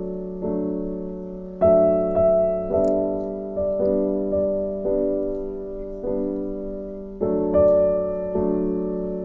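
Background piano music: slow chords, each struck about once a second and left to fade.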